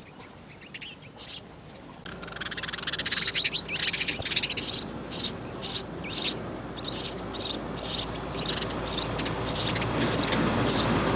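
House sparrows chirping: a few scattered high chirps, then from about two seconds in a dense, louder run of repeated chirps, about two a second.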